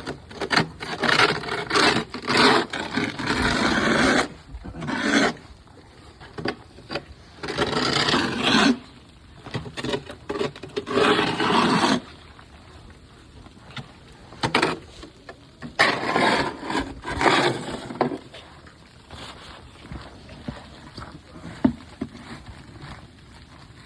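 Snow shovel scraping and pushing heavy snow, in a series of strokes of one to a few seconds each with short pauses between.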